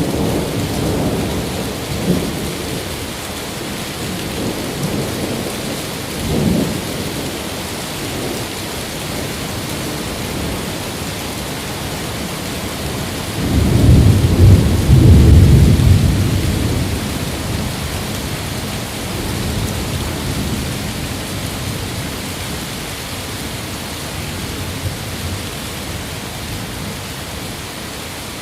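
Steady rain with rolling thunder. Low rumbles come near the start and briefly about six seconds in, and the loudest, longest peal comes about halfway through, then fades back under the rain.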